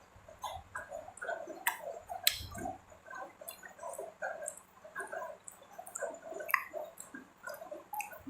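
Close-miked chewing: irregular wet mouth smacks and small clicks, several a second.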